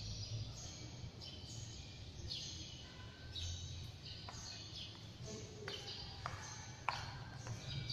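Small birds chirping over and over in short, high, falling notes, over a steady low hum, with a few sharp clicks in the second half.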